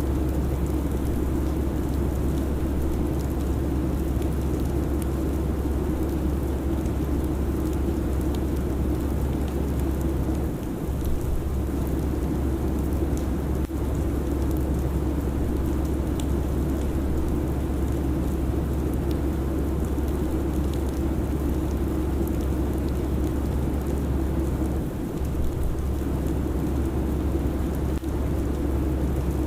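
Steady airliner cabin noise: a constant deep drone of engines and rushing air, with faint scattered ticks. The deepest part of the hum drops out briefly twice.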